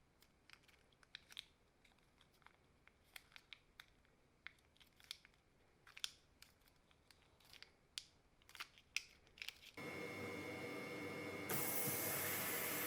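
Scattered small sharp clicks and scrapes of small metal parts being handled at a workbench. About ten seconds in a steady machine hum starts, and it turns into a louder, even hiss near the end.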